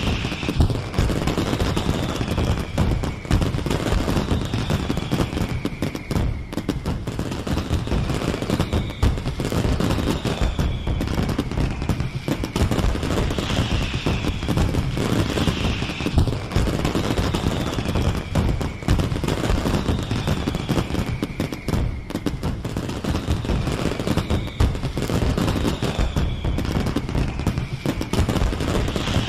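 Fireworks display going off without a break: dense, rapid crackling and banging like a barrage. A falling whistle recurs about every two seconds.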